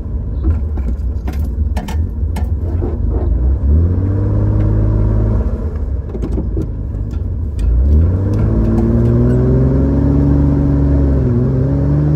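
1965 Chevrolet Corvair's air-cooled flat-six engine pulling the car away and accelerating, its pitch rising about three seconds in and again from about eight seconds, with a short dip near the end. A few sharp clicks sound in the first few seconds.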